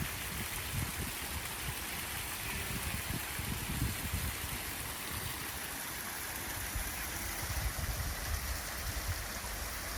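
Steady rushing of a clear creek's flowing water, with an uneven low rumble underneath.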